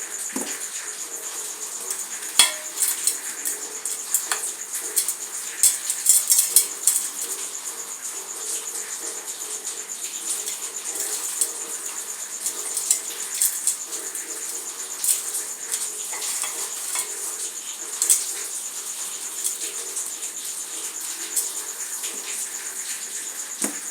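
Dry, crumbly material being broken apart by hand: a stream of small crackles and clicks, densest a few seconds in and again briefly near the end, over a faint steady high-pitched whine.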